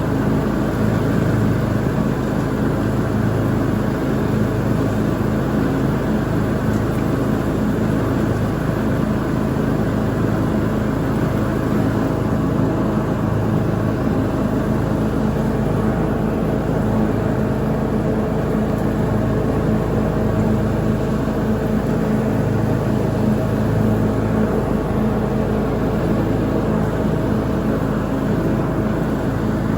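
Lawn mower engine running steadily at constant speed while mowing.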